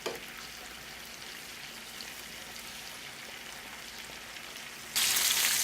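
Floured chicken pieces frying in hot oil in a skillet: a faint steady crackling sizzle after a brief click, turning suddenly much louder near the end.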